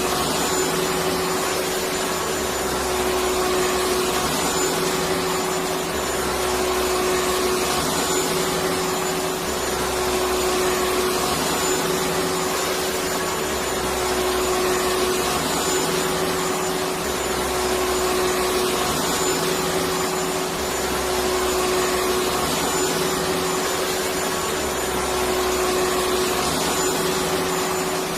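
Electric vacuum cleaner motor running steadily: a dense, even whoosh with a constant hum and a faint low throb that swells and fades every two seconds or so.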